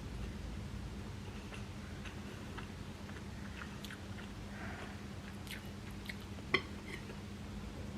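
Close mouth sounds of someone chewing soft idiyappam (steamed rice noodles) with vegetable korma: scattered small wet clicks, with one sharper click about six and a half seconds in.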